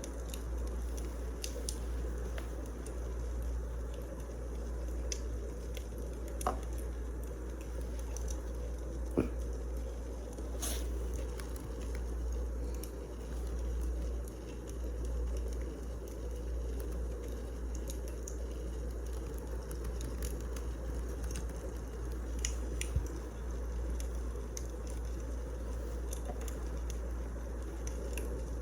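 Wood fire crackling, with a steady low rumble and occasional sharp pops at irregular intervals.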